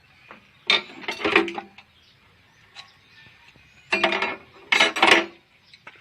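Metal parts and tools clanking and scraping with a ringing tone, in two bursts: one about a second in and another around four to five seconds in, as a rice combine harvester is taken apart by hand.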